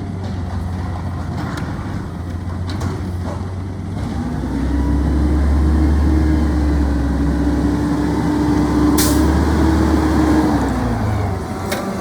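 Garbage truck's diesel engine running, revving up about four seconds in, holding there for several seconds, then dropping back to idle. There is a brief hiss about nine seconds in.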